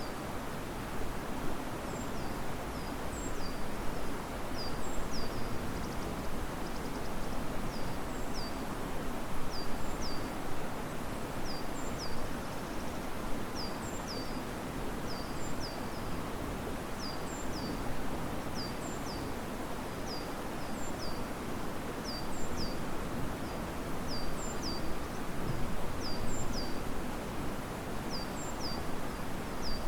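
Wind rustling the leaves of riverside trees over the steady rush of a river, swelling and easing in gusts. Through it a bird repeats short, high, downward-sweeping chirps, often in pairs.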